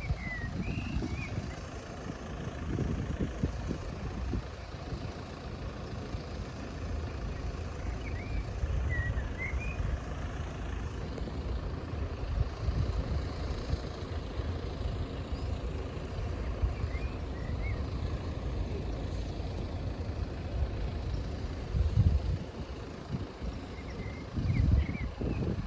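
Low, uneven vehicle rumble, with a few short high chirps in small groups roughly every eight seconds.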